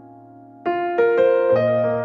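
Background piano music: a held chord fades, then new notes are struck about two-thirds of a second in and again near one and one and a half seconds.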